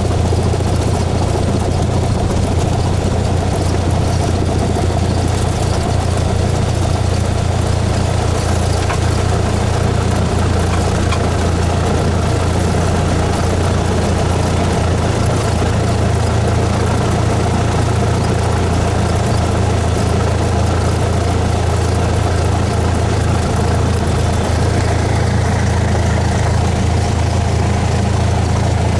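Cessna 172S's four-cylinder Lycoming IO-360 engine and propeller running at a steady speed: a loud, even, low drone.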